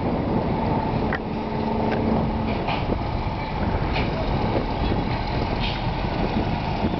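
Train with locomotive No. 15 crossing a river bridge: a steady rumble with a held engine hum in the first couple of seconds, and several brief sharp sounds from the running gear.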